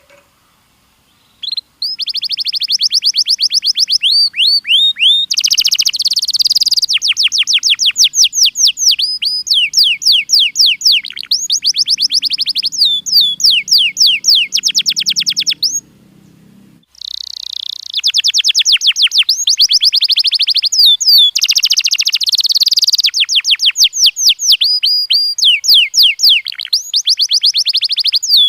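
Domestic canary singing: long, rapid trills of repeated chirp notes in changing tours, starting about a second and a half in, with a short break about two-thirds of the way through before the song resumes.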